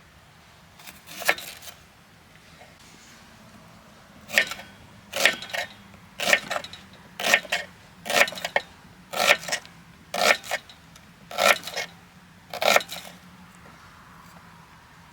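Firewood being split for a campfire with repeated blows, sharp knocks about once a second, ten in all.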